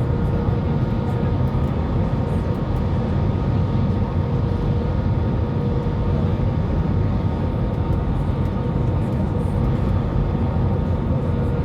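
Steady aircraft cabin noise during the descent to landing: a constant low rumble of engines and airflow, with a few faint steady tones above it.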